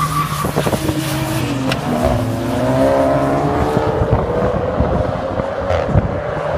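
Drag cars launching off the line at full throttle, the engine note climbing, dropping once at a gear change, climbing again and then holding as the cars pull away down the strip. A sharp crack sounds near the end.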